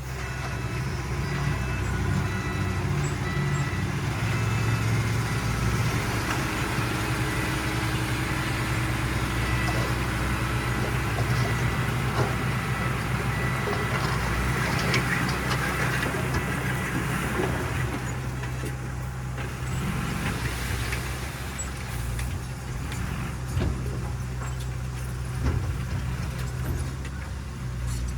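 Diesel engines of heavy earthmoving machines running steadily, with occasional sharp clanks.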